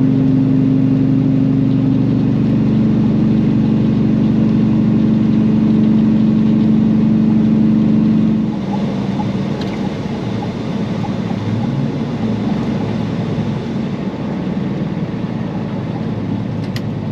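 Semi truck's diesel engine running steadily, heard from the cab. About halfway through the steady engine note drops away, and the sound turns quieter and rougher.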